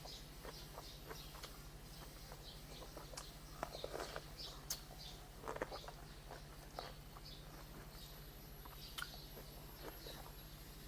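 Small birds chirping in short, repeated calls, with faint clicks and chewing from eating mixed in, over a steady low hum.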